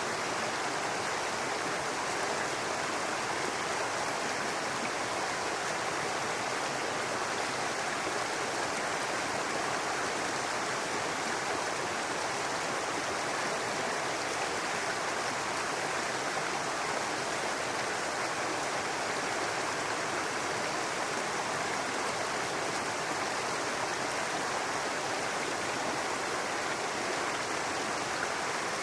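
A babbling brook: water running and splashing steadily over rocks.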